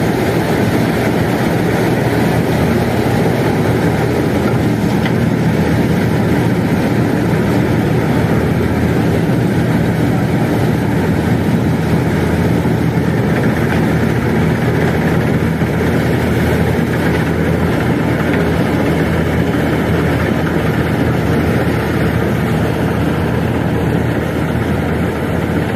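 Combine harvester's diesel engine and machinery running steadily at a constant speed.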